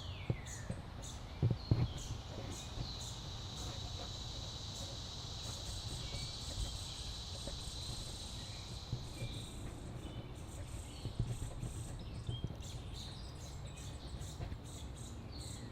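Outdoor summer ambience: an insect buzzes steadily for several seconds in the middle, a high even trill that fades in and out. At the start come a couple of quick falling whistled bird notes, over a low background rumble.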